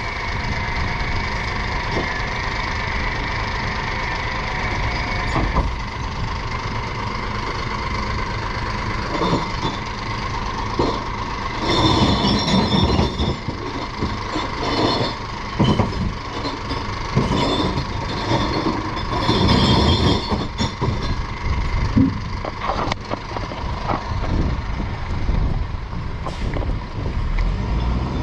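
Glass recycling truck running, with a steady whine for the first few seconds and then repeated bursts of clattering and crashing.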